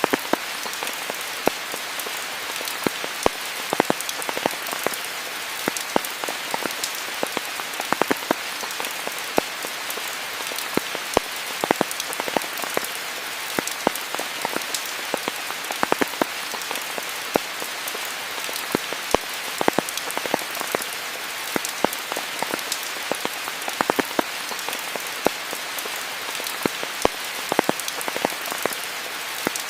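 Steady rain falling, an even hiss with many close, distinct drops pattering and ticking on nearby surfaces.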